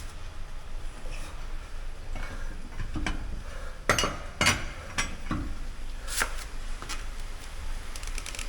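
Metal hand tools and small steel parts clinking and knocking as they are handled, with a few sharper clanks about four seconds in and again near six seconds.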